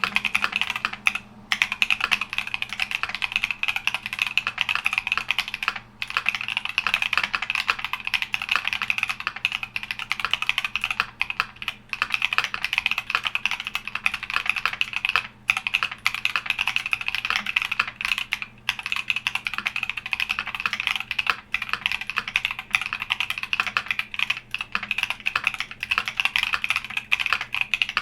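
Continuous fast typing on a Keychron Q60 aluminium mechanical keyboard: a dense stream of key-switch clacks with a few brief pauses.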